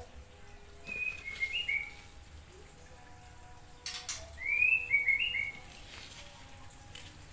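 A bird chirping in two short phrases of quick high notes, one about a second in and one from about four to five and a half seconds in, with a sharp click just before the second phrase.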